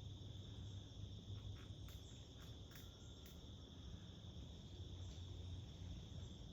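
Faint, steady chorus of crickets, a constant high-pitched chirring without pause, with a few soft ticks in the first half and a low background rumble.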